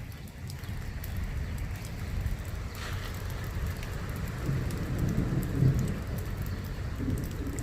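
Steady rain falling, with a low rumble that swells for a second or two about halfway through.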